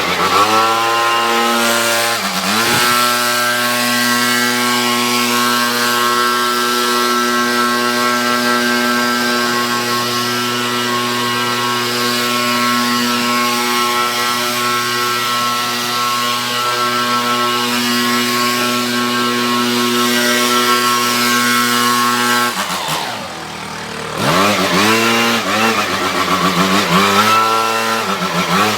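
A small gas engine running steadily at high throttle. Its pitch dips and climbs back as it is throttled down and revved up again a couple of seconds in, and again near the end.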